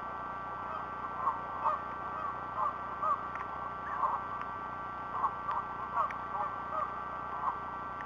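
Birds calling over and over outdoors, short calls coming two or three a second at irregular intervals, over a steady background hiss with faint steady tones.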